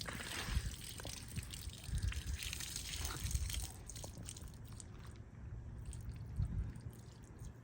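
Water trickling and dripping from a pulled junkyard radiator being checked for leaks, fading out about four seconds in. Low uneven rumbling runs underneath.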